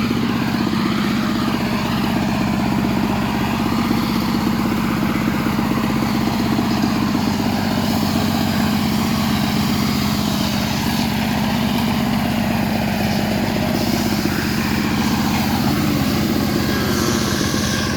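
Stihl MS385 chainsaw's two-stroke engine running steadily, a continuous drone that barely changes in pitch or loudness.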